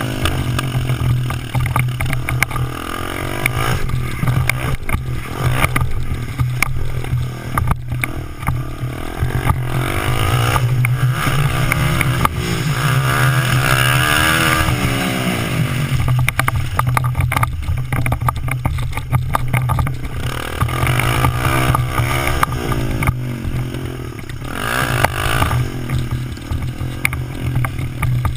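Small Suzuki dirt bike's engine running and revving up and down as it is ridden around a dirt track, its pitch repeatedly rising and falling with the throttle.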